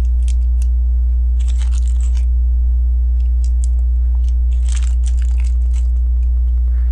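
Small plastic LEGO tiles and bricks clicking and rattling in several short clusters as they are handled and pressed into place, over a steady low electrical hum.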